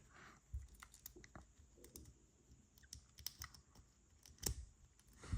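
Faint, scattered clicks and taps of plastic building-block pieces being handled and tried against each other, with a louder click about four and a half seconds in.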